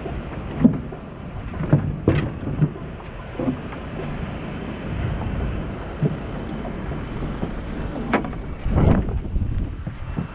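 Steady rumble and wash of a boat under way, with wind buffeting the microphone. Several short knocks rise above it, two close together about two seconds in and two more near the end.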